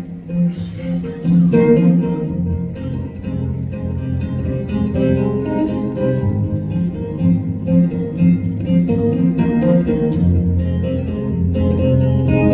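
Live band playing an instrumental break with no vocals, led by guitar over steady bass and drums.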